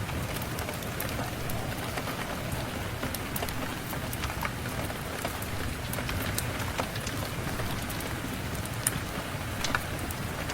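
Steady rain with scattered sharp crackles and pops of a wood fire in a fireplace.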